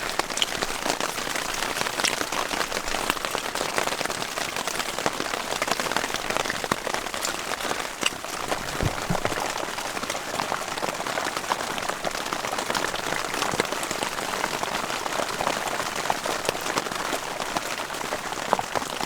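Heavy, steady rain falling on a tarp shelter, many separate drops striking close by.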